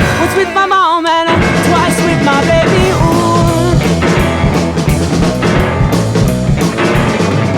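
Indie rock recording playing: the full band, with drum kit, bass and singing. A wavering sung or keyboard line leads in the first second or so, then the band plays on with a steady beat.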